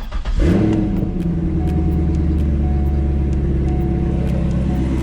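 C5 Corvette's V8 starting: a brief crank, catching about half a second in, rising briefly and then settling into a steady idle. With the AC belt off, no chirp is heard, which marks the bad bearing in the AC belt's pulley as the source of the noise.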